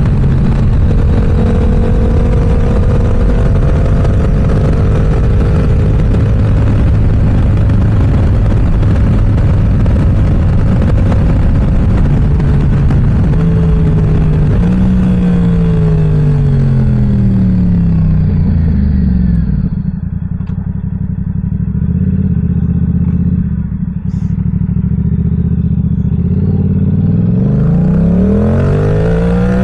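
Yamaha R7's 689 cc parallel-twin through an M4 aftermarket exhaust while riding: it holds steady revs for about twelve seconds. Then the revs fall in several sweeps with brief blips as the bike slows and downshifts. It runs lower and quieter for several seconds before the revs climb again near the end as it accelerates.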